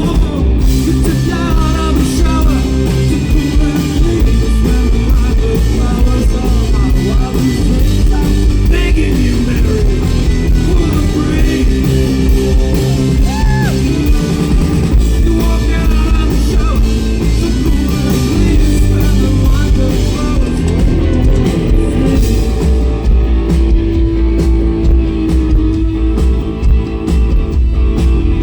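Rock band playing loud, with electric guitar, bass and drum kit, and a singer's voice over the band.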